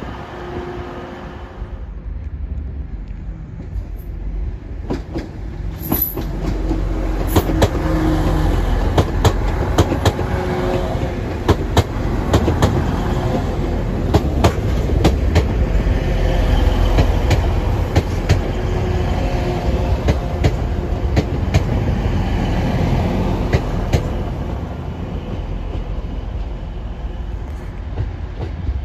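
Two coupled Class 185 diesel multiple units pass at low speed. Their underfloor Cummins diesel engines rumble, and the wheels click repeatedly over rail joints and pointwork. The sound builds as the train draws level and eases away near the end.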